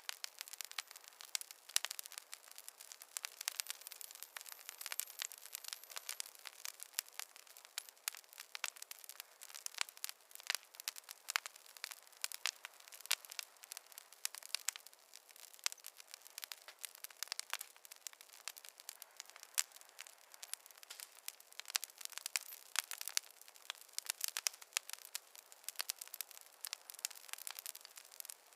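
Wood fire crackling steadily, with dense irregular small pops and snaps over a light hiss.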